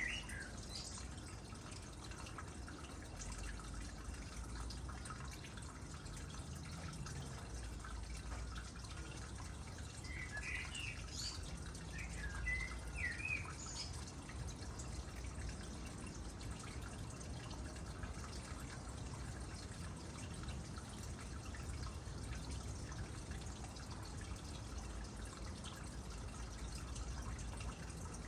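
Water trickling and dripping steadily into a small pond. A bird chirps briefly at the start and gives a few short calls around the middle.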